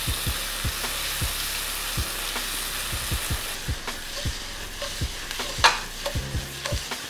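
Onion and red bell pepper sizzling in butter and avocado oil in a skillet, with a utensil stirring and knocking against the pan many times at uneven intervals.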